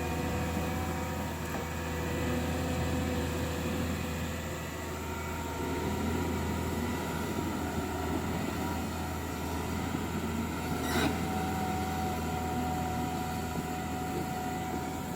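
A heavy machine's engine running steadily on road-repair work, with a single sharp knock about eleven seconds in.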